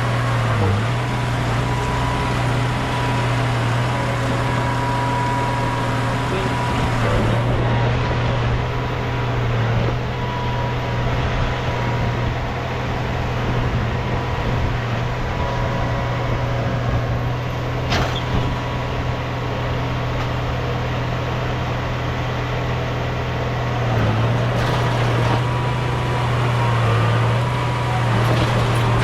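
Heavy earthmoving machine's diesel engine running steadily under work, its low drone dipping briefly a few times. There is a single sharp click about two-thirds of the way through.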